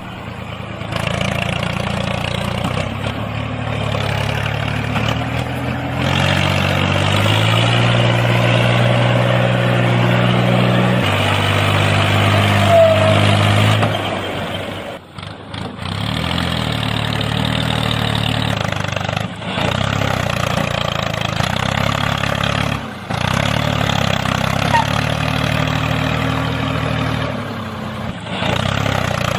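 An engine idling and revving, its pitch stepping up and down, with abrupt breaks a few times where the sound cuts off and resumes.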